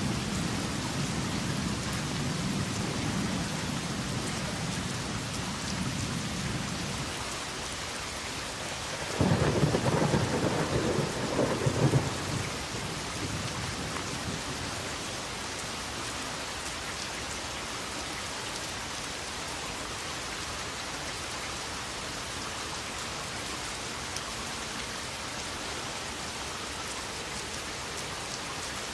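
Steady rain hiss with thunder. A low rumble fades out over the first seven seconds. About nine seconds in, a sudden loud thunderclap rolls for about three seconds, and then the rain goes on alone.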